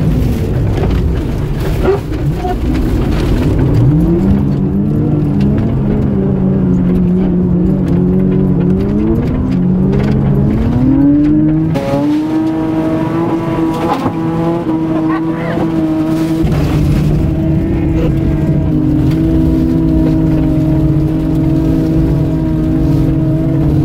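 Toyota Supra drift car's engine heard from inside the cabin, revs rising and falling repeatedly as the car drifts on ice, then held at a steady high pitch through the second half.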